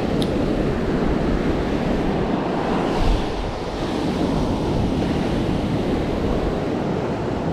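Gulf surf washing and breaking around a wader, with wind buffeting the microphone. There is a brief louder surge about three seconds in.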